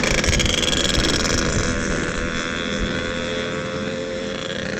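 Yamaha RX-King two-stroke single-cylinder motorcycle engine running on the move, gradually getting quieter as the rider eases off.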